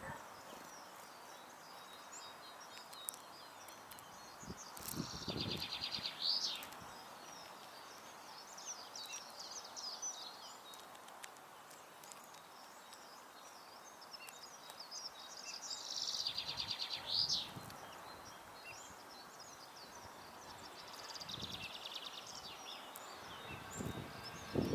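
A songbird singing the same short phrase three times, a fast trill ending in a quick flourish, with other small birds chirping faintly between the songs.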